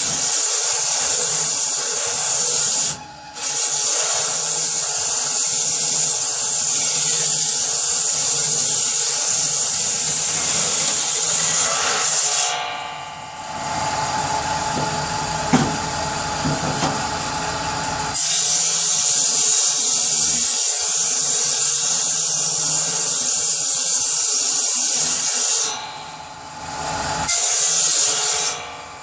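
Power saw cutting through wood for kindling in long continuous cuts. The loud cutting noise stops briefly about three seconds in and again near the end, and there is a quieter stretch in the middle where the saw runs with a steady hum between cuts.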